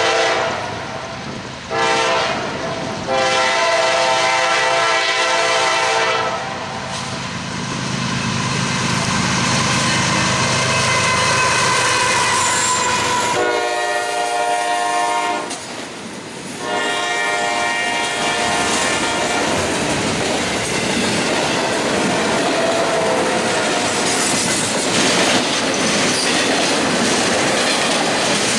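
Freight train horn sounding in several blasts over the first twenty seconds as the CSX locomotive approaches and passes, the longest about as it goes by. After that, the steady rumble and wheel clatter of double-stack intermodal well cars rolling past.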